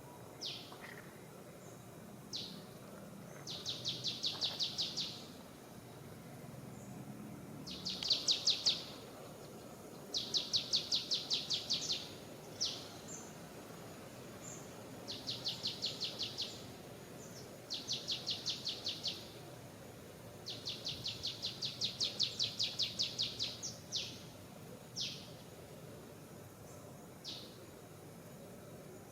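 A bird calling over and over in fast high trills of about eight notes a second, each trill lasting one to two seconds, with single short notes in between, over a steady background hiss.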